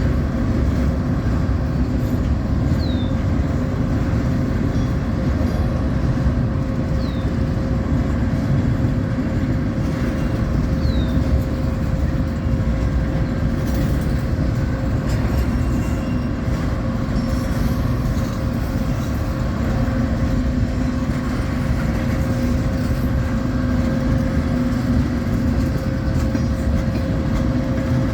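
Train rolling by in a continuous, steady rumble with a steady low hum. Three brief high chirps come in the first dozen seconds.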